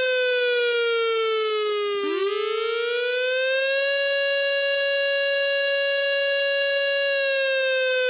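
Air raid warning siren wailing, the signal of a real air raid alert. Its pitch sinks slowly, climbs back over about two seconds, holds steady, then begins to sink again near the end.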